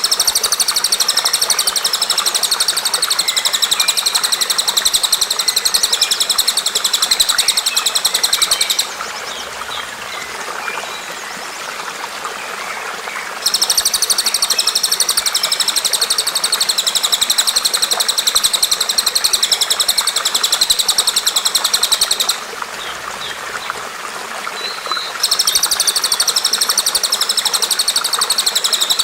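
Songbird singing a rapid, very high, buzzy trill in three long bouts of about nine seconds each, with short pauses between them, over a steady background hiss.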